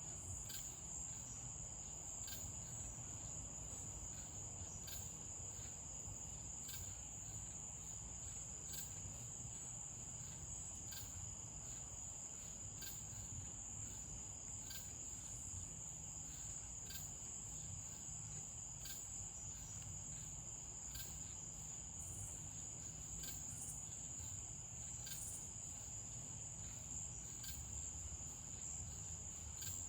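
Crickets at night trilling in one continuous high-pitched drone, with faint short ticks about every two seconds.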